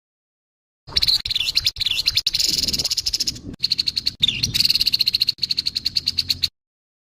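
Grey-headed babbler's harsh call: a fast, dry rattling chatter of rapid ticks. It starts about a second in, breaks off briefly a few times, and stops abruptly shortly before the end.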